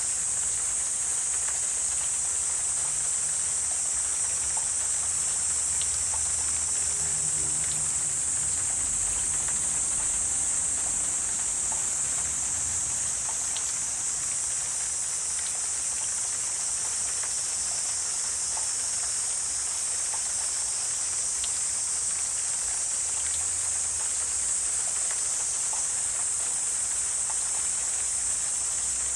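A steady, high-pitched chorus of insects that does not let up, with scattered faint ticks.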